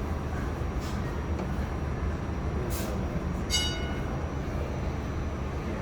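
Steady low rumble and hum of an R46 subway car, with a few faint clicks and a short high-pitched tone about three and a half seconds in.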